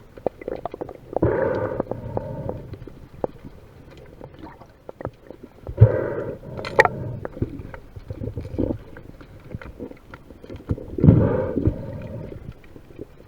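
Sound picked up by an underwater action camera in stormy surge: muffled sloshing and gurgling water with scattered small clicks and crackles. Three louder rushing surges come about five seconds apart.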